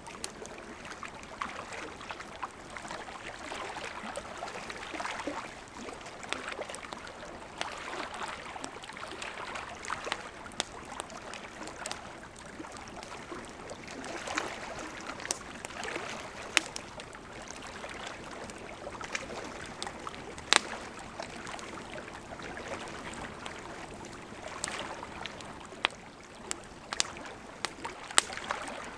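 Wood fire burning with a steady hiss and many irregular sharp crackles and pops, one louder pop about two-thirds of the way through.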